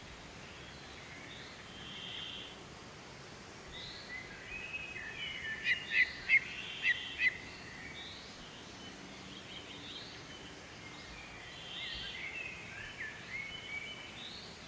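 Birds chirping and calling over a steady background hiss, with a quick run of five loud, sharp chirps about six seconds in.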